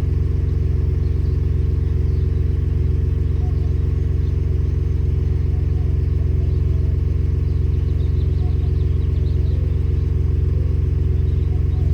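Ford F-150 Raptor's 3.5L twin-turbo EcoBoost V6 idling steadily through a Flowmaster FlowFX muffler after a cold start, with a deep, even exhaust rumble.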